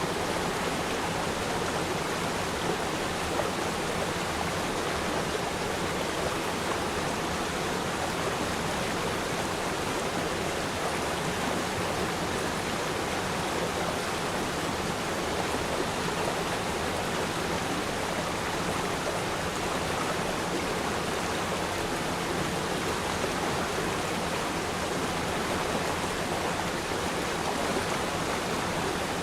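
Shallow river stream running over rocks: a steady, even rushing of water.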